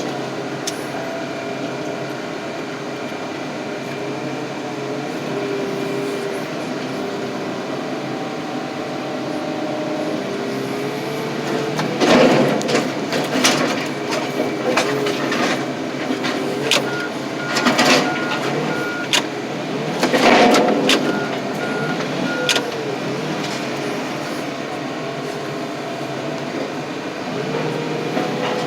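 Diesel-powered car crusher running under load, its hydraulics whining up and down in pitch as it presses steel truck frames, which crack and pop loudly several times in the middle of the stretch. A loader's reversing beeper sounds briefly near the middle.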